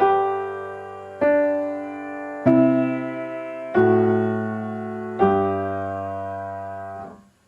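Piano playing a slow largo melody: single notes struck about every second and a quarter over a held bass note, each ringing and fading, the last one dying away near the end.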